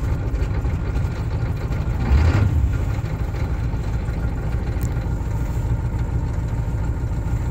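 1982 Chevrolet C10's 6.2-litre V8 diesel idling just after a cold start, running a little rough. The engine briefly gets louder about two seconds in, then settles back to a steady idle.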